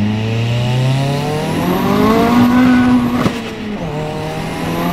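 The swapped-in Audi S3 1.8-litre turbocharged four-cylinder in a VW Lupo GTI, fitted with a GT28 turbo and a 3-inch decat exhaust, heard from inside the cabin pulling hard in second gear from about 2000 rpm. The engine note climbs steadily with a high turbo whistle rising over it. About three seconds in there is a sharp crack as the revs drop at the upshift, and then the note starts climbing again.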